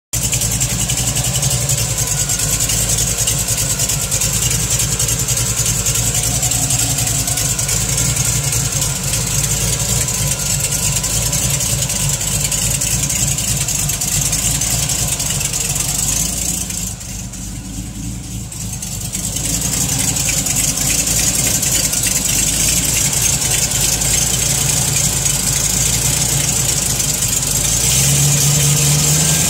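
TVR Chimaera 400's Rover V8 engine idling with a ticking noise. The sound goes quieter and duller for a few seconds past the middle, and the engine note steps up slightly near the end.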